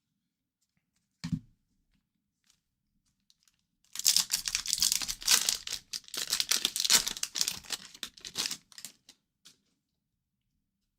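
A hockey-card pack's wrapper being torn and crinkled for about five seconds, after a single short thump.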